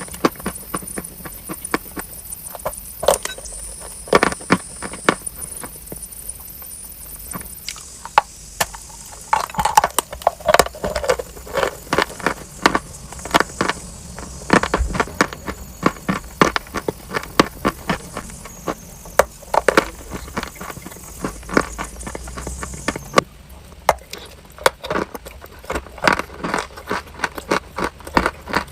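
Close-miked crunching of chalk being bitten and chewed: a dense, irregular run of sharp crisp crunches and crackles.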